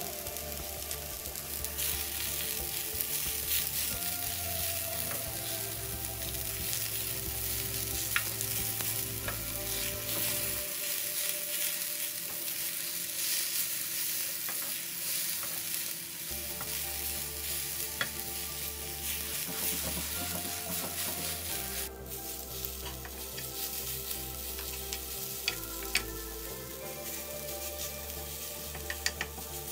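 Jute leaves with garlic and green chili sizzling as they stir-fry in hot oil in a pan. A wooden spatula gives a few sharp scrapes and taps against the pan now and then.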